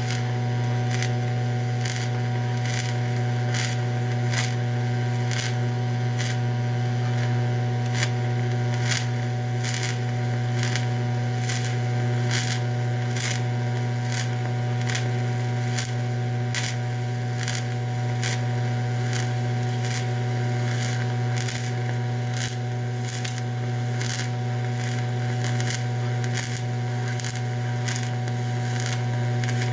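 TIG welding arc on aluminium on DC electrode positive: a steady loud buzz, with sharp crackling ticks about twice a second as the filler rod is fed into the puddle.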